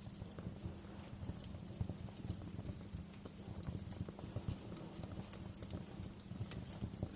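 Wood fire crackling: frequent irregular pops and snaps over a low, steady rumble of flames.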